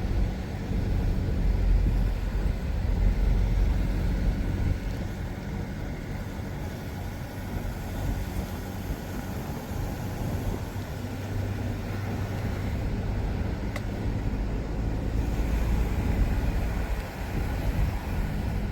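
Car driving along a road: steady low engine and tyre rumble with road noise, swelling a little now and then.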